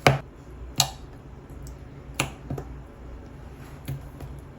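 Clear glitter slime being pressed and stretched by hand, giving about five sharp pops as air bubbles burst in it, the first the loudest.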